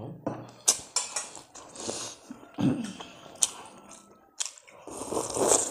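Close-up mouth sounds of eating rice and curry by hand: wet chewing with many short lip smacks. Near the end comes a longer, louder slurp as she sips from a brass bowl.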